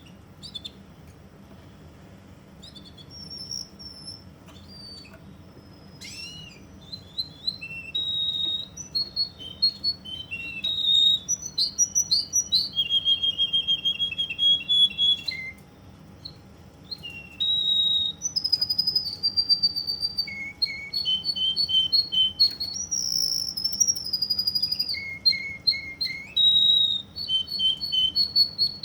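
Russian canary singing: a few soft notes at first, then from about six seconds in a long run of fast trills, rolls and clear held whistles, with a brief pause about halfway through.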